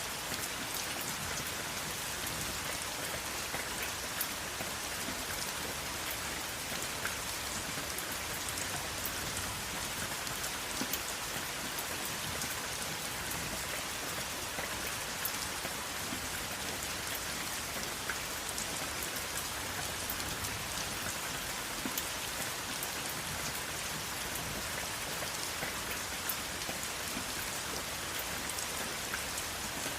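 Steady rain falling, a constant hiss with many small drop ticks and no thunder.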